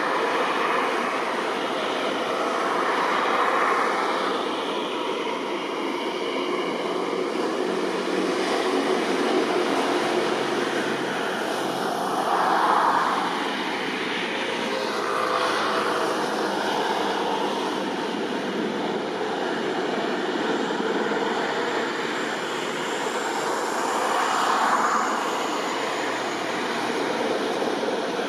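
Eurocopter AS350 Ecureuil helicopter running, a steady turbine-and-rotor noise that swells louder and eases again a few times.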